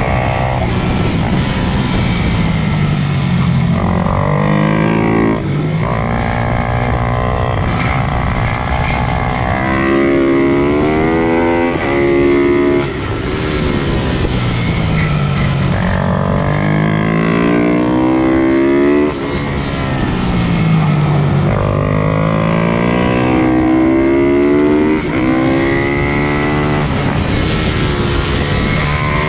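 Pit bike engines racing, revving up through the gears: the pitch climbs over a few seconds, drops at each shift or corner, then climbs again, over and over.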